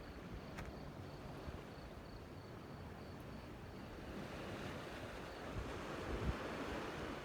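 Outdoor rushing noise of sea surf and wind, swelling about four seconds in, with a couple of low thumps near the end.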